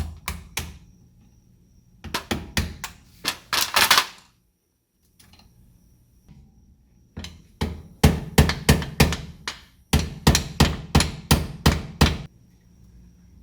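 Hammer blows on a stuck driveshaft, a 1966 Ford Fairlane's, struck to knock it free after its U-joint nuts are off. The blows come in two runs of sharp knocks, the longer one near the end at about three a second, and the shaft does not come loose.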